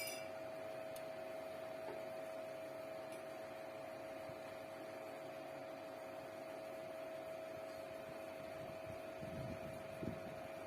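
Steady electrical-sounding hum at one fixed pitch, with a couple of faint knocks near the end.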